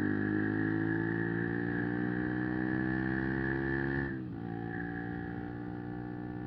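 125 cc single-cylinder motorcycle engine pulling under acceleration, its pitch climbing steadily, then dropping suddenly about four seconds in, as at an upshift, and running steady at the lower pitch.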